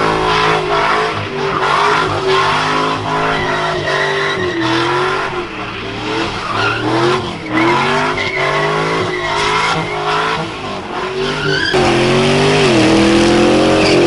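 Car engine revving hard, its pitch rising and falling over and over, with tyres squealing as the car is driven in a burnout or donuts.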